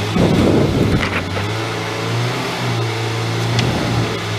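Honda Civic EK4's B16 1.6-litre four-cylinder engine running at a steady pitch, heard from inside the cabin, after a short burst of noise at the start.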